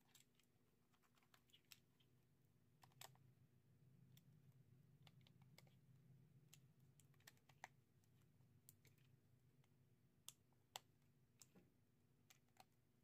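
Near silence with faint, scattered small clicks and ticks, a dozen or so spread irregularly.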